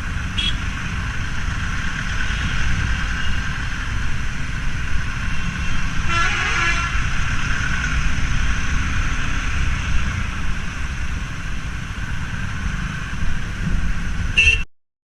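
Motorcycle riding sound from a Yamaha R15: its engine runs steadily under heavy wind rumble on an action-camera microphone. A vehicle horn toots briefly about six seconds in, and the sound stops abruptly near the end.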